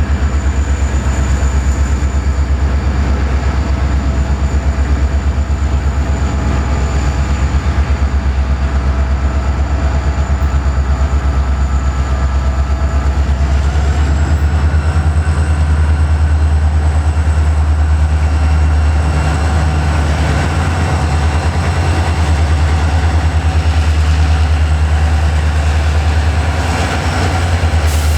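A freight train passing with a steady low rumble. A faint high whine steps up in pitch about halfway through.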